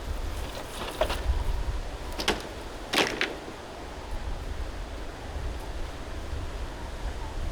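Strong wind buffeting the microphone as a steady low rumble, with a few short sharp noises about one, two and three seconds in.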